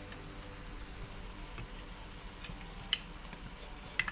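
Sautéed long squash and shrimp sizzling in oil in a pot, a steady soft hiss, with two sharp clicks about three seconds in and near the end.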